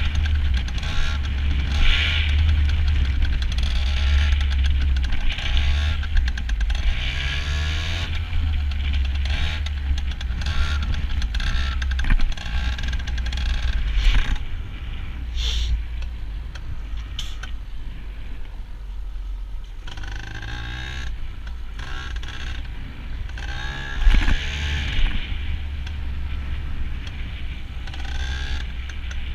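Yamaha PW80's small air-cooled two-stroke single-cylinder engine running under way, its pitch rising and falling several times as the throttle is worked. A loud thump about three-quarters of the way through.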